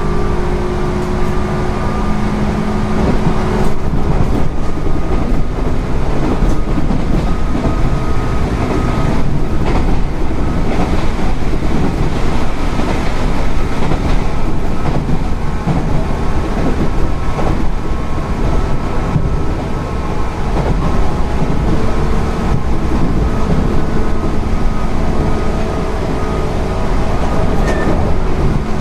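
JR West 205 series 0-bandai electric train running, heard from on board: steady wheel and rail rumble with occasional clacks over rail joints. A steady motor hum in the first few seconds fades out about three and a half seconds in.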